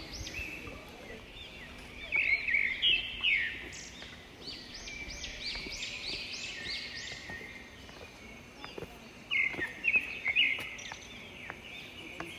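Birds chirping in the forest, many quick rising-and-falling calls overlapping in series, with a few louder knocks or bumps near the start and again past the middle.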